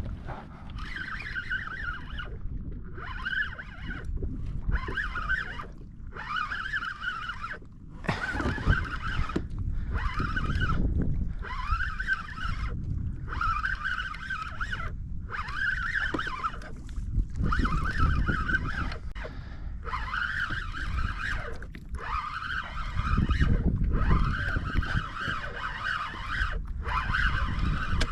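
Fishing reel cranked hard in repeated spurts of a second or two, its gears whining, with short pauses between, as a fish is reeled up from deep water. Low water and wind noise run underneath.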